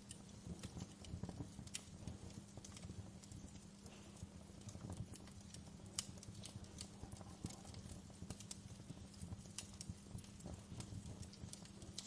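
Wood fire crackling, with irregular sharp snaps and pops over a low, steady rumble; the sharpest pop comes about halfway through.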